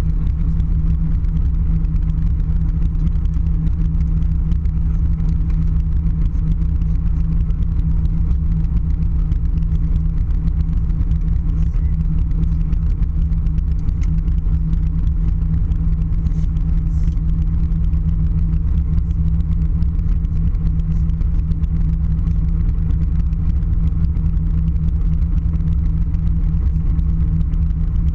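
Steady, loud low rumble with a constant hum inside a passenger aircraft cabin: the airliner's engines and rolling noise on the ground after landing.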